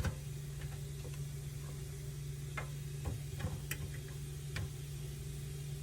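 Scattered light clicks and taps, irregularly spaced, as hot chicken pieces are turned over in an air fryer, over a steady low hum.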